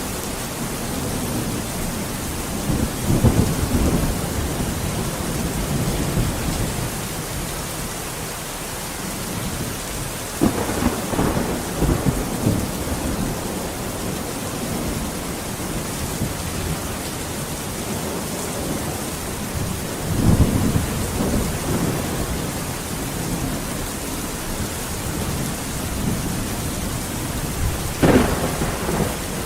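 Steady heavy rain with thunder rumbling through it; the rumbles swell up several times, and a sharper thunderclap comes near the end.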